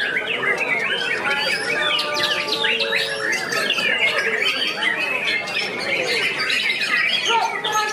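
Many caged white-rumped shamas (murai batu) singing at once: a dense, unbroken mix of rapid chirps, whistles and trills, with a few longer held whistled notes.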